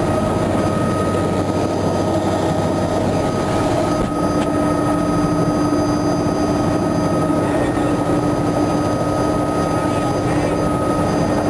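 Helicopter engine and rotor heard from inside the cabin in flight: a loud, steady drone with a constant whine running through it.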